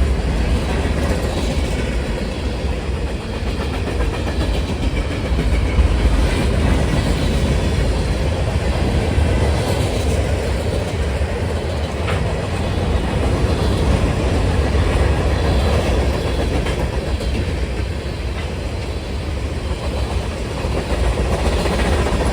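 A train rolling past: a steady rumble of wheels on the rails, with no horn.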